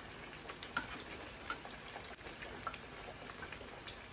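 Sweet potatoes frying in oil: a steady faint sizzle with scattered small pops and crackles.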